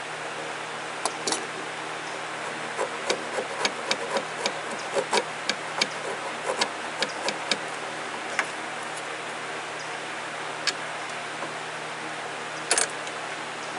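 Hand chisel paring a groove in white oak: a run of sharp ticks and clicks, several a second, over a steady hiss and hum, thinning to a few scattered clicks in the last few seconds.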